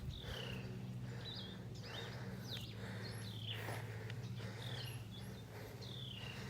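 A bird calling again and again outdoors, each call a short falling whistle-chirp coming about every second and a half, over a steady low hum.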